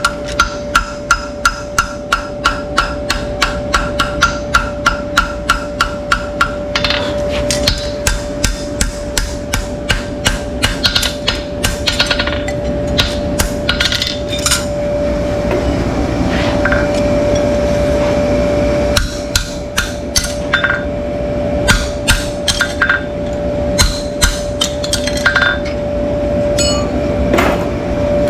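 Hammer strikes with a ringing, metallic edge, rapid and even at about three to four a second for the first six seconds, then slower and irregular, over a steady hum.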